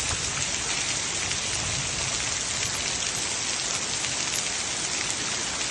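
Heavy rain falling steadily on waterlogged ground, an even hiss.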